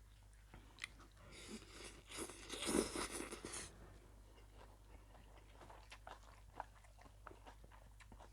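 Close-up eating of a spicy mee sua noodle salad with chicken feet: soft chewing and small biting clicks, with a louder stretch of noisy mouth sound lasting about two seconds, starting about a second in.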